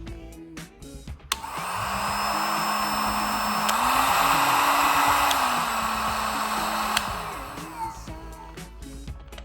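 Aceline AHG200 heat gun switched on with a click, its fan blowing with a steady rush and a motor hum under it. The hum steps up in pitch a few seconds in and back down again, with switch clicks at the changes, as if it is switched to a higher setting and back. It is then switched off and winds down. Music plays faintly underneath.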